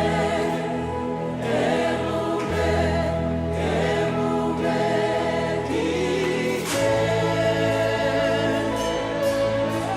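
Gospel worship music: a choir of voices singing over sustained keyboard chords and bass, the chords changing twice.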